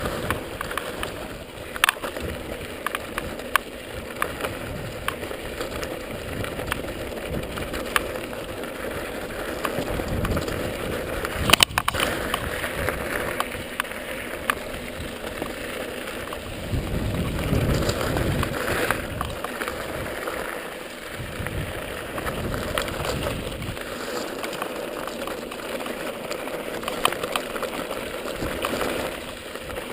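A mountain bike riding down a dirt trail: steady tyre and trail noise with frequent rattles and knocks from the bike, the sharpest about twelve seconds in, and wind rumbling on the microphone at times.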